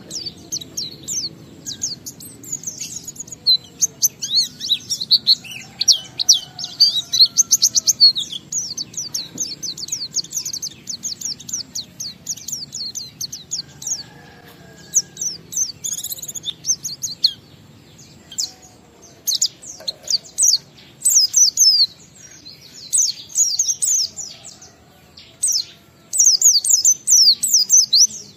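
A white-eye (pleci) singing a long, fast, varied song of high twittering and chirping notes, in rapid runs broken by short pauses. It sings most densely at the start and again in bursts near the end.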